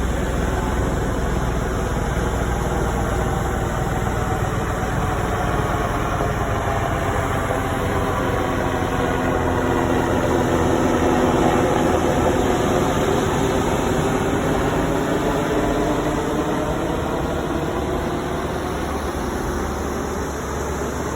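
Helicopter flying past overhead, its rotor and engine noise growing louder to a peak about halfway through, then slowly fading as it moves away, with a sweeping change in tone as it passes.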